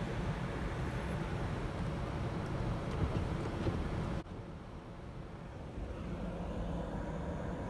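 Steady rumble of an idling vehicle, picked up by a dashcam's microphone. A little past the middle the hiss above the rumble cuts off suddenly and the sound goes quieter.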